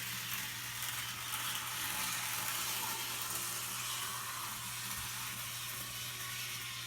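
HO scale model train locomotive running steadily around the track: a constant electric motor hum with a hiss of wheels on the rails.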